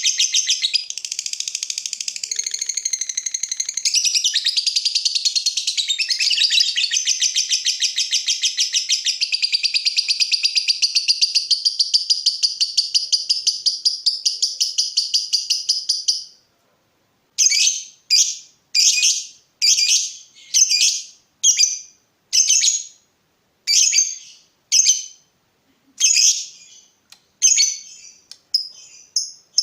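A lovebird's long, fast chattering trill (ngekek) runs unbroken for about sixteen seconds and then cuts off suddenly. It is followed by a string of short, clipped high calls (ngetik), about one a second.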